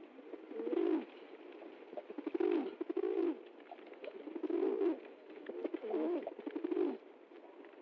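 Pigeons cooing: a run of low, throaty coos that rise and fall, each phrase starting with a short stutter, about four phrases in a row.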